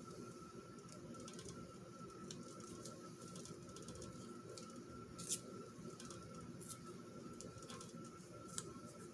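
Faint rustling and small taps of scrap paper and washi tape being handled and placed on a journal page, with one sharper tap about five seconds in.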